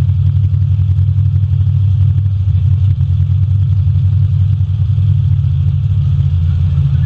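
Full-size demolition derby cars' engines running, a loud steady low rumble.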